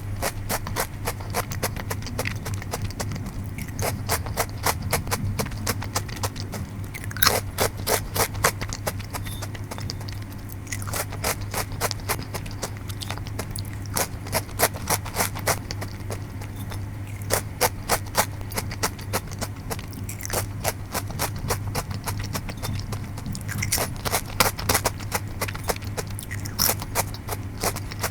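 Close-up crunching and chewing of Bourbon Jaga Choco chocolate-coated potato chips: runs of rapid crisp crunches that come thicker and thinner with each mouthful, over a steady low hum.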